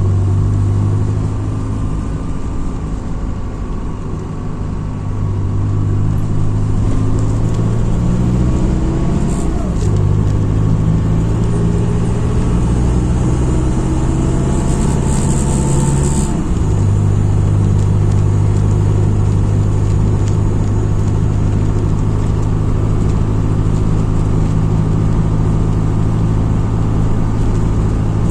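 MAZ-206 city bus's diesel engine under way, heard from the passenger cabin: its tone climbs and then drops abruptly twice, about ten and sixteen seconds in, as the bus accelerates through gear changes. A brief hiss comes just before the second drop.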